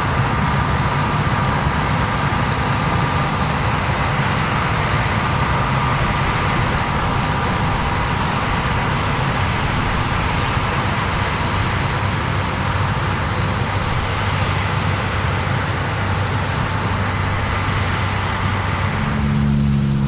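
Combine harvester running steadily while harvesting corn: a dense, even machine noise with a faint whine. Near the end a deeper, humming engine note comes in.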